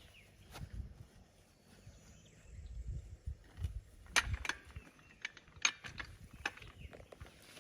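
A few irregular sharp metallic clicks and knocks, the loudest about four and six seconds in, over a faint low rumble: equipment being handled during work on a tractor tire.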